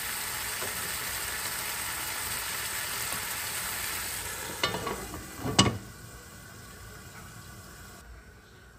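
Diced pork sizzling in a frying pan while a wooden spatula stirs it. About five seconds in come two knocks as the lid is set on the pan, and after that the sizzling goes on muffled and quieter under the lid.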